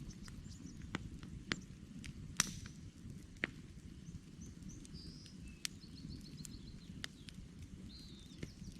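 Campfire burning wood logs, crackling with irregular sharp pops over a steady low rumble of the flames; the loudest pop comes about two and a half seconds in. Small songbirds chirp faintly in the second half, with a short trill.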